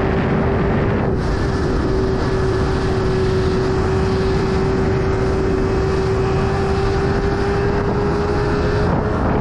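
BMW S1000RR's inline-four engine running hard at steady high revs, its note climbing slowly, under heavy wind rush from riding at speed.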